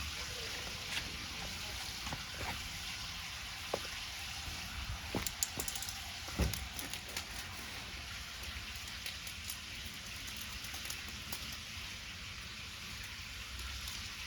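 Pancake batter sizzling in a pan over a wood campfire: a steady frying hiss, with scattered crackles and pops that cluster about halfway through.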